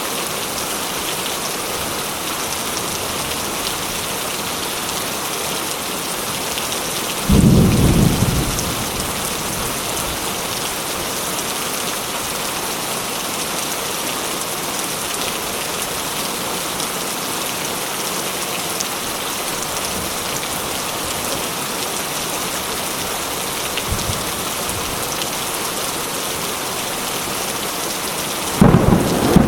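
Steady rain falling, with two loud claps of thunder: one about seven seconds in that dies away over a second or so, and another starting near the end. A fainter rumble comes in between.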